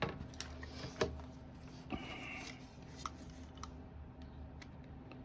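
A knife cutting a rubber window gasket strip. There are a few faint clicks and taps, and a short scraping slice about two seconds in.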